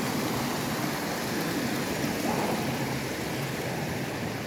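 Steady rush of moving water, a stream or small waves, with no distinct splashes or other events.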